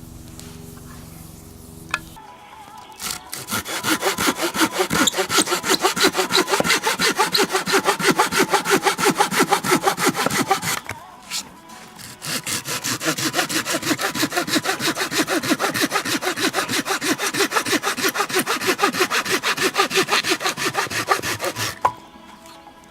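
Hand saw cutting through wood in quick, even back-and-forth strokes: two long runs of sawing with a short pause in the middle.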